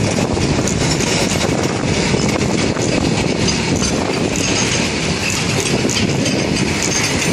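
Loaded coal freight wagons rolling past close by: a steady rumble of steel wheels on the rails, with a dense run of clicks and clanks.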